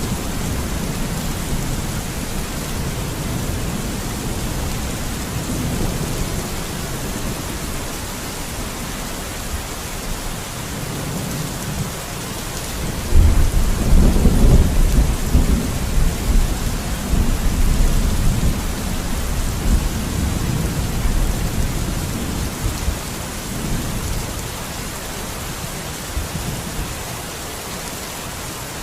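Steady heavy rain hissing, with a roll of thunder that breaks in suddenly about halfway through and rumbles on for several seconds before fading.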